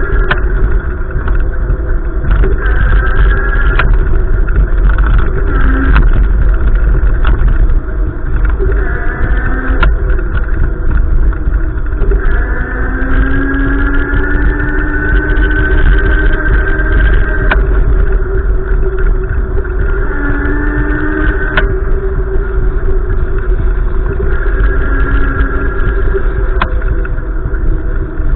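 Gusty wind buffeting the microphone: a loud, constant low rumble, with pitched humming tones that swell and fade every few seconds over it.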